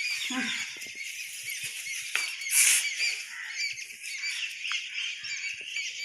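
Many birds chirping continuously in quick, overlapping calls. A short, loud rustling burst comes about two and a half seconds in.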